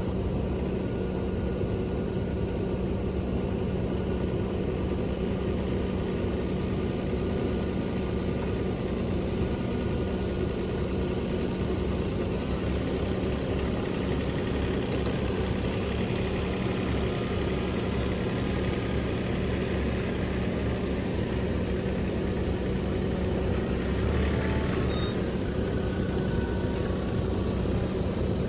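Truck engine running steadily, a constant low hum with an even drone.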